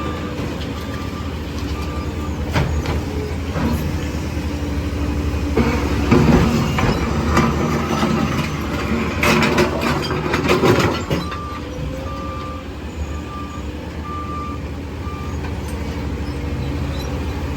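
Garbage truck's diesel engine running, with its backup alarm beeping about once a second at the start and again after about eleven seconds. In between, from about six to eleven seconds in, a louder stretch of clattering and knocking with a rushing noise.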